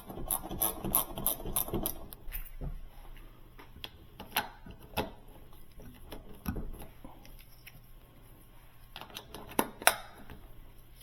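Metal hand tools and hardware clicking and rattling as a refrigerator door panel is refitted: a busy rattling stretch for the first two seconds or so, then scattered single clicks, and two sharp clicks close together near the end.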